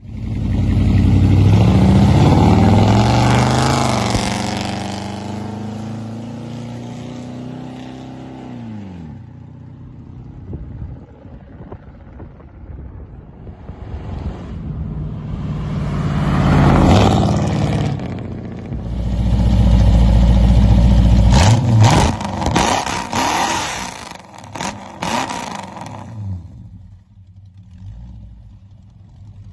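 Pontiac 389 V8 with a cross-ram intake, running through 2.5-inch dual exhaust with 24-inch glass-pack mufflers, accelerating hard through the gears. The engine note climbs and drops as it pulls, eases off, then pulls again, and settles to a low, steady rumble near the end.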